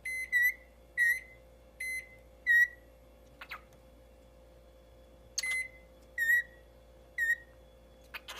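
Eight short, high beeps. Some are flat electronic-style beeps and others swoop down at the end. They come in a quick run over about three seconds, then a pause, then three more, with a click or two between.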